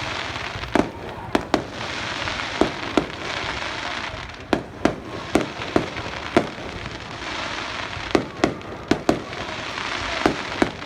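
Aerial fireworks bursting: a rapid, irregular string of sharp bangs, some in quick pairs, over a steady crackling hiss.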